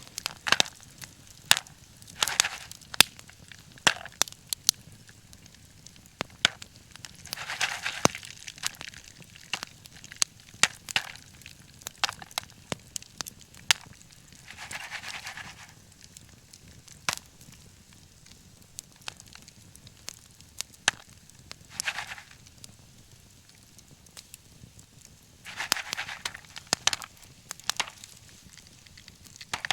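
Wood fire crackling with frequent sharp pops, some loud, and a few short bursts of hiss from the burning wood.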